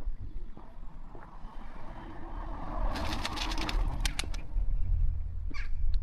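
A car passing by: its tyre and engine noise swells to a peak about three seconds in, then fades. A bird calls briefly near the end.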